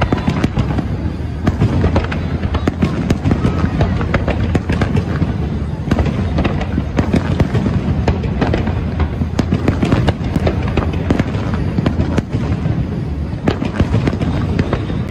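Aerial fireworks shells bursting in rapid succession: a loud, continuous barrage of sharp bangs and pops with a steady low rumble underneath.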